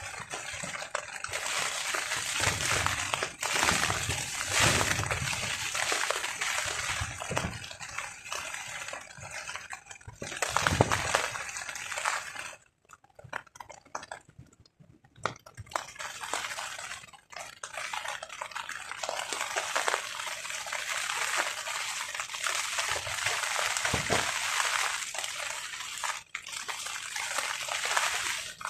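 Rain falling on a tarp, with gusts of strong wind rumbling on and off through the first half. The rain noise drops away for a few seconds about halfway, then comes back steady.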